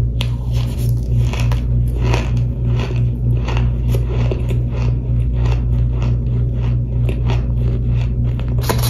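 A person biting and chewing crunchy chunks of toasted powder, giving a string of sharp crunches about two to three a second over a steady low hum.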